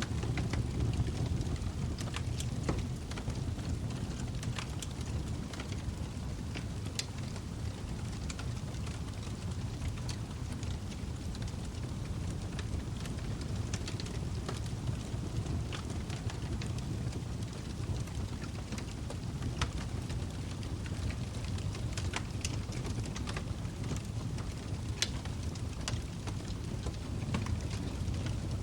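Log fire burning in a fireplace: a steady low rumble of the flames with frequent sharp crackles and pops from the burning wood scattered throughout.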